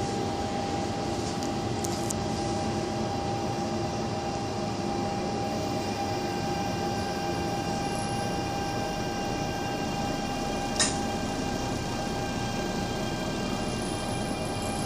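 Inside the car of an MTR Tung Chung line A-Train running into a station: a steady running rumble with several steady whining tones over it, and a single sharp click about eleven seconds in.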